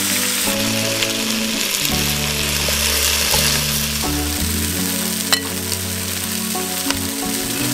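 Marinated chicken feet sizzling steadily as they fry in oil in a cast-iron pot and are turned with metal tongs, with a few sharp clicks, the loudest about five seconds in. Background music plays under it.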